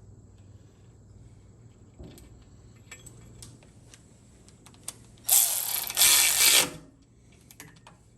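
Hand ratchet wrench clicking as a bolt on the TH400 transmission cover is run in and tightened, with two quick loud bursts of rapid ratcheting about five seconds in and light taps of tools and parts before them.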